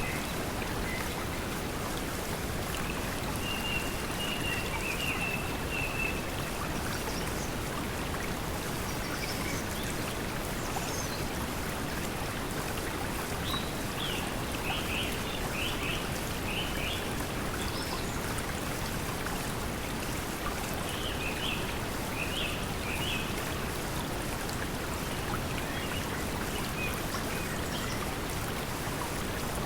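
Steady pink noise blended with flowing stream water. Birds chirp over it at intervals: a short trill a few seconds in, then quick runs of chirps about halfway through and again a little later.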